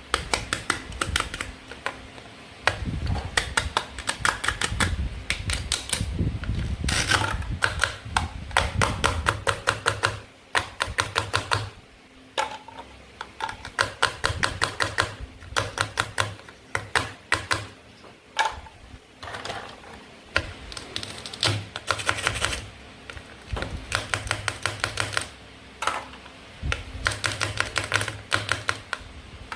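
Toy play food being cut and handled: runs of quick sharp plastic clicks, several a second, in bursts of a second or two with short pauses between them.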